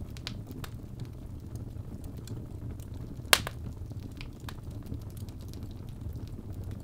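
Birch logs burning in a fireplace: a steady low rumble of flames with scattered small crackles and pops, and one loud sharp pop a little over three seconds in.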